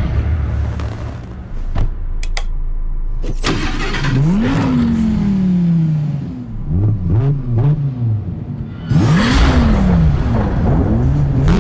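Lamborghini Huracán's V10 engine firing up a few seconds in, after a couple of clicks, then revved in a series of sharp blips, each climbing quickly in pitch and falling back.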